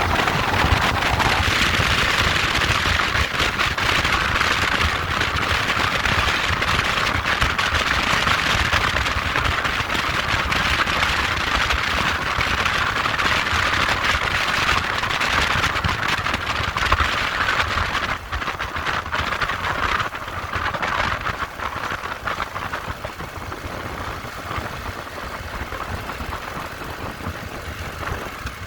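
Motorcycle engine running with a steady rush of wind and road noise; the sound drops noticeably about two-thirds of the way through and stays quieter.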